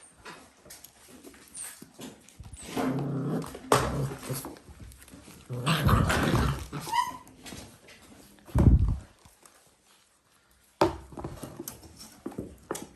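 Dalmatian puppies growling as they play-fight, with scuffling and a few sudden knocks or thumps.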